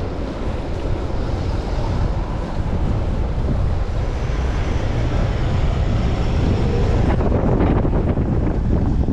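Strong gusty wind buffeting the microphone of a chest-mounted camera on a moving bicycle: a loud, steady low rumble.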